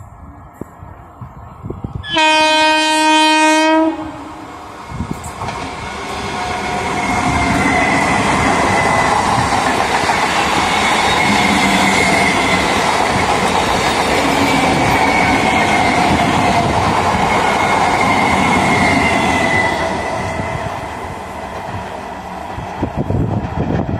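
Indian Railways EMU electric local train sounds its horn, one loud blast of about two seconds, then passes close at speed with steady wheel and rail running noise for about fifteen seconds that dies away near the end.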